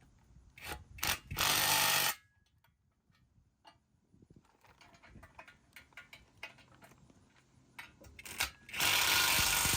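Battery-powered power tool run in short spurts: a couple of quick blips and then a run of under a second about a second in, and again near the end with a run of about a second. Faint clicks of parts being handled in between.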